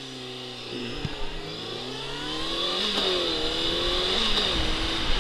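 Honda CBR600 sport bike's inline-four engine accelerating, its pitch climbing and then dropping sharply about three seconds in at an upshift, climbing again and dropping once more near the end. Wind rumble on the microphone grows as speed builds.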